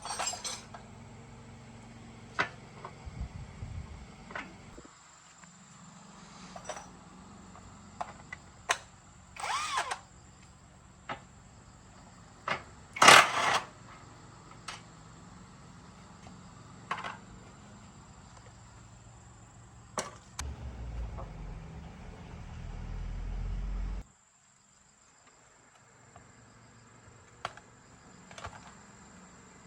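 Workshop tool sounds from work on a motorbike: scattered metal clinks and knocks, with a louder clatter about halfway through. Near the end a low motor sound swells for a few seconds and cuts off abruptly.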